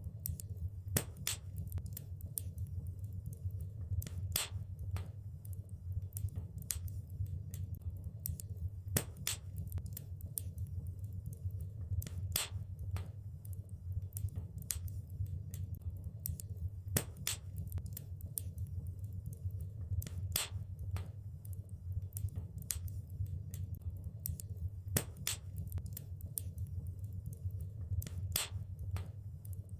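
Wood fire crackling in a fireplace: irregular sharp pops and snaps, a few clearly louder than the rest, over a steady low rumble.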